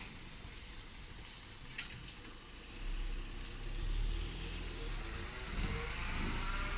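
Electric automatic gate or door operator motor starting up about three seconds in and running with a low, steady hum.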